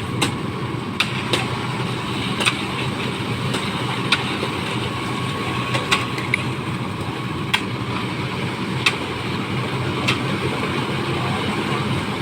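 Concrete mixer truck's diesel engine running steadily under load, with sharp knocks or clicks every second or so on top.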